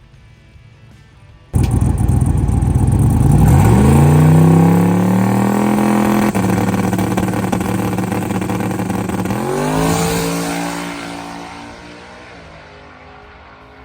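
Turbocharged LS V8 drag car accelerating hard down the strip, its engine note suddenly loud, climbing in pitch through the gears, then fading away as the car pulls off into the distance.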